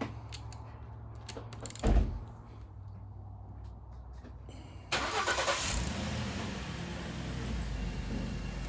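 A single sharp metal clank about two seconds in. Just before five seconds a motor starts with a burst of hiss and settles into a steady low running.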